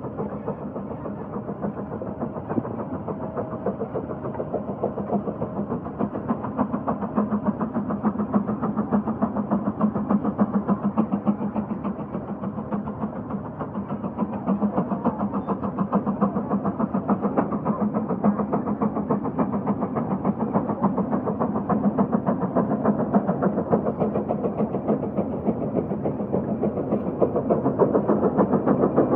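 Case 150 steam traction engine working hard under the load of a plow, its exhaust beating in a rapid, even chuff, getting gradually louder.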